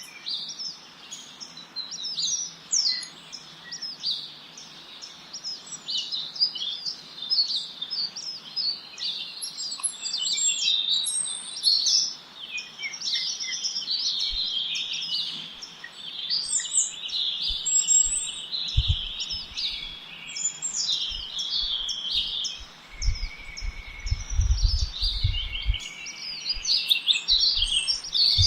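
Several birds singing at once: a dense chorus of quick, high chirps and trills overlapping without a break. From about halfway, low rumbles come and go underneath.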